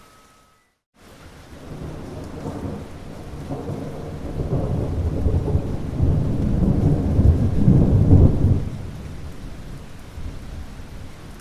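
Rain falling steadily with a long roll of thunder, after a brief silent gap near the start. The rumble builds over several seconds, is loudest a little past the middle, then dies away toward the end.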